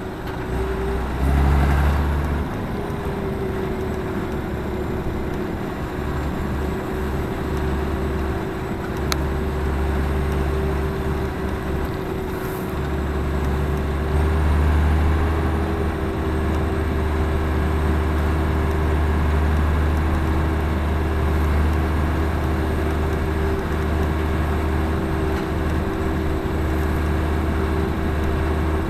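Claas Axion 820 tractor's diesel engine running steadily with a low drone, swelling briefly about a second and a half in.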